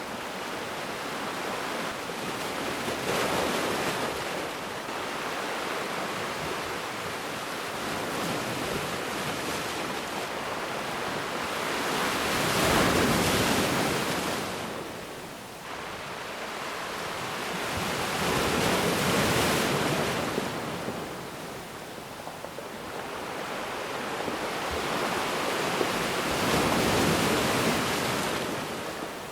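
Ocean waves breaking on a beach, the surf rising and falling in slow surges a few seconds apart, with the loudest swell about halfway through.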